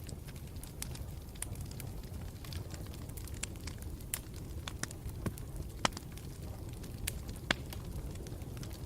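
Campfire burning with a steady low rumble and irregular sharp crackles and pops, a couple of louder pops in the second half.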